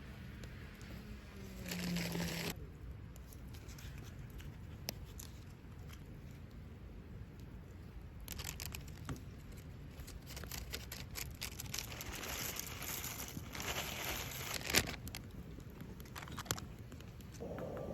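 Crinkling and rustling in several bursts, with scattered sharp clicks.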